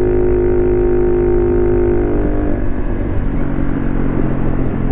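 Honda Cross Cub 110's small single-cylinder engine running on the road through a Yoshimura muffler, with a Willswin power filter enclosed in the stock air-cleaner box cover. The steady engine note breaks up and drops about two and a half seconds in, settling to a lower, steady tone.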